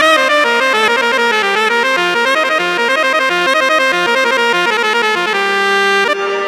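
Korg Pa700 oriental arranger keyboard playing a quick melody of many short notes in one of its instrument voices, settling on a held note near the end that drops in level and fades.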